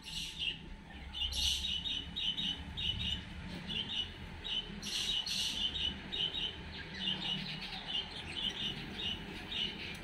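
Bird calls: a steady run of short, high chirps, about three a second, with a few louder, harsher calls mixed in, two of them close together about halfway through.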